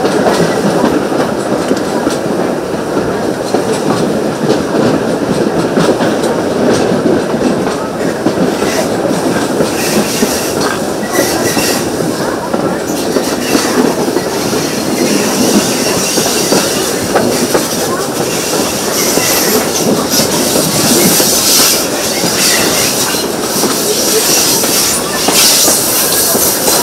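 Steam-hauled heritage train running along the line, heard from a carriage: a steady rumble and clatter of wheels on the rails. A brighter hiss builds from about halfway through.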